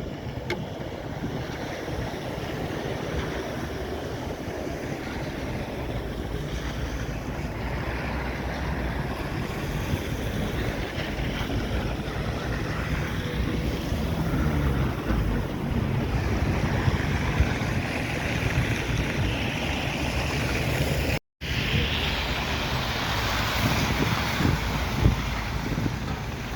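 City street traffic with wind buffeting the microphone. A passing vehicle's engine hum holds steady, then drops in pitch about halfway through. The sound cuts out completely for a moment near the end.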